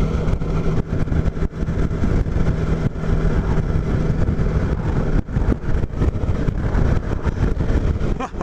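Motorcycle running steadily at road speed, engine rumble mixed with wind rush over the helmet microphone.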